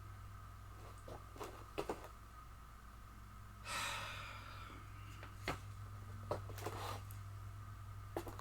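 Quiet room with a steady low hum, a few faint clicks and knocks, and a short breathy exhale about halfway through.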